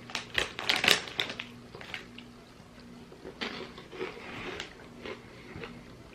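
Crunching and chewing of crisp ring-shaped jalapeño and sour cream corn snacks. The crackling is loudest in the first second or so, and a second run of crunches comes about three and a half seconds in.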